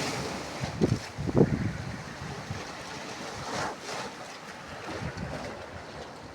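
Sea waves breaking and rushing, with a swell of surf about three and a half seconds in. Wind buffets the microphone in low thumps, loudest about a second in.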